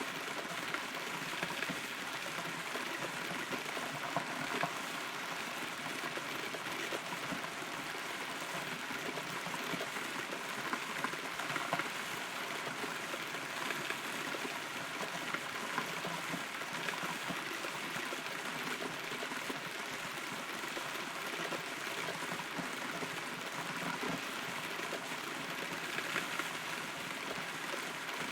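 Steady rain pattering, heard from inside a hollow rotten tree, with many small drops ticking on the wood.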